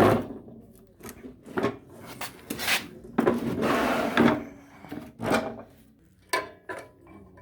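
A run of heavy knocks and clunks from a walk-behind lawn mower being moved and turned over by hand, with a longer scrape about three seconds in. No engine is running.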